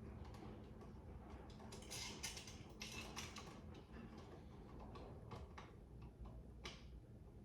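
Faint, irregular clicks and light scrapes of an electrical wall outlet, its wires and a screwdriver being handled during hand installation, with a busier run of clicks about two to three seconds in.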